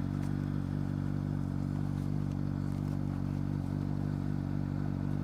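Honda CBR600RR's inline-four engine idling steadily.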